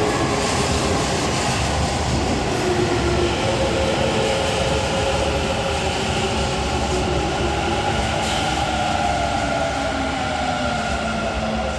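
Kintetsu Urban Liner limited express train pulling out of the station: a steady rumble of motors and wheels on rail, with drawn-out tones that slowly slide up and down in pitch.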